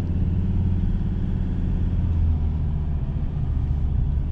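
Inside the cab of a 2017 Ford Ranger pickup on the move: the diesel engine's steady low drone with road rumble.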